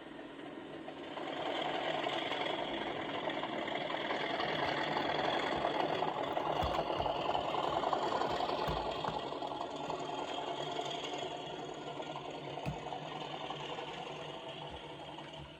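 Accurascale Class 37 OO gauge model's DCC sound decoder playing an English Electric diesel engine through its small speaker, the engine note building about a second in as the loco pulls away slowly, then easing back near the end. A few short clicks sound in the middle.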